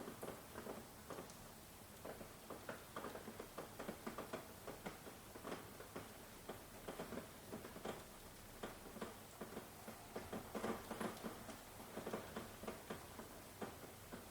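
Rain falling, heard as a faint steady hiss with irregular close drops tapping and pattering, several a second. No thunder.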